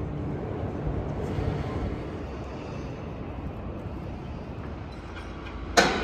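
Steady low rumble of outdoor urban background noise. Music with sharp, regular beats starts near the end.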